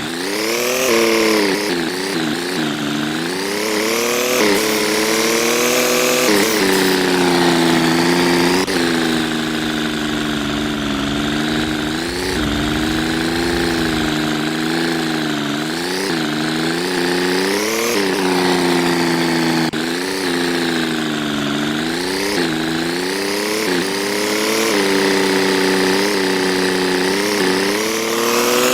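An engine running, its revs rising and falling every few seconds.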